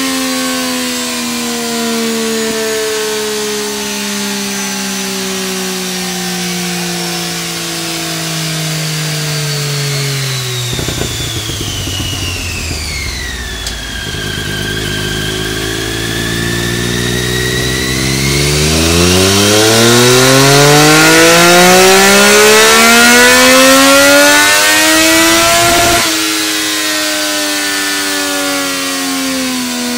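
Triumph Daytona 675 three-cylinder engine with an Arrow slip-on exhaust, run on a dyno power check. The revs fall for about ten seconds, sit low, then climb steeply in a full-throttle pull towards the rev limit. It is loudest just past the middle, and the throttle is shut abruptly about 26 seconds in, after which the revs fall away. A thin high whine drops and rises along with it.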